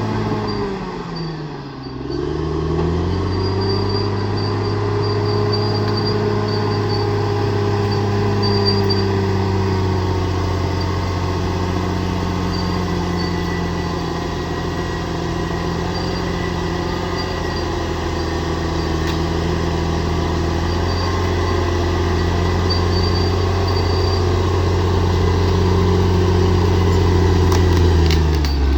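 Bulldozer's diesel engine working under load. Its revs drop sharply about a second in and climb back, hold steady, then dip and rise again briefly near the end.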